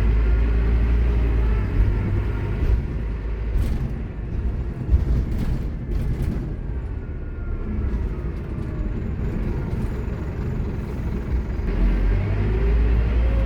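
Scania K230UB bus running with its ZF Ecomat automatic gearbox whining loudly. The whine falls in pitch as the bus slows, with a few clicks and rattles while it is quieter. Near the end it rises again as the bus pulls away.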